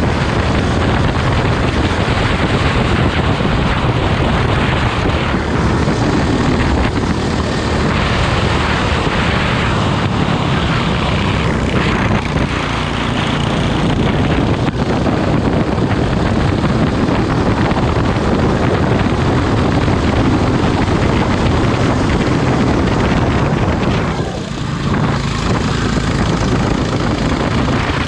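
Kart engine running hard at racing speed, a steady loud drone, with a short drop in loudness about three-quarters of the way through as the throttle eases.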